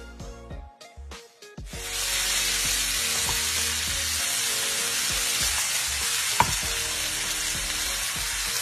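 Chicken thighs sizzling as they sear in a cast iron skillet. The steady sizzle starts suddenly about two seconds in, with a single sharp clink a little after six seconds.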